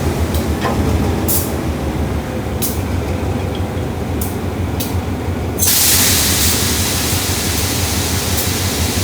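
Diesel train at a station: a steady low engine rumble with sharp metallic clicks every second or so, then a loud hiss sets in suddenly a little past halfway and keeps going.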